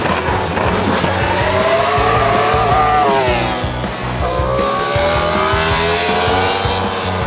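Motorcycle engines running at high revs, their pitch climbing and then dropping twice, over background music.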